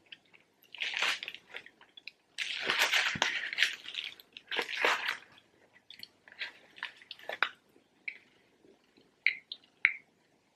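Close-up eating sounds of a double cheeseburger: loud bursts of biting and chewing through the first half, then softer wet chewing with short mouth clicks.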